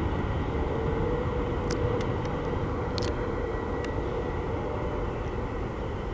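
CSX freight train rolling along the track, a steady low roar likened to a tornado, with a faint held tone through the middle and a few sharp clicks.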